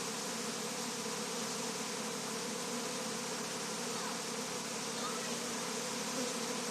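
Dense, steady buzzing of a honey bee swarm in flight, heard from right in the middle of it, thousands of bees circling before they cluster.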